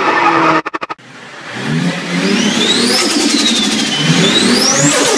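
Car-intro sound effect. The end of a tyre squeal breaks into a brief stuttering cut-out about a second in. A car engine then revs up and down several times, with a high whine climbing and falling along with it.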